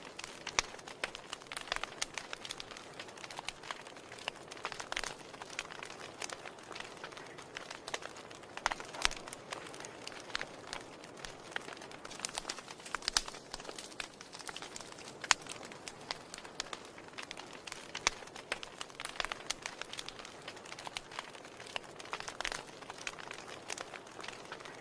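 Wood fire in a fireplace crackling: a soft steady hiss with irregular sharp pops and snaps.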